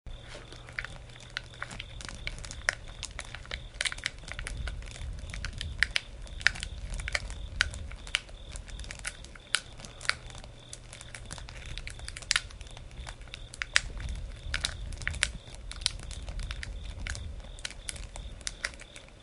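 Campfire crackling: burning wood snapping and popping in many irregular sharp cracks over a steady low rumble of flames.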